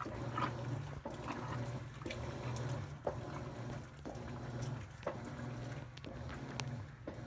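Top-load impeller washing machine in its wash stage: the motor hums in strokes of about a second, with a click between strokes, while water sloshes in the tub.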